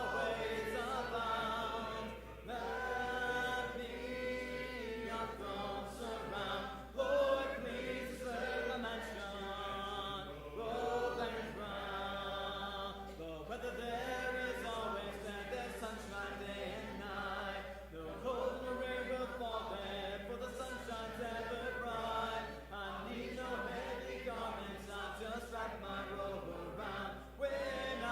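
A congregation singing a hymn together a cappella, many voices at once with no instruments.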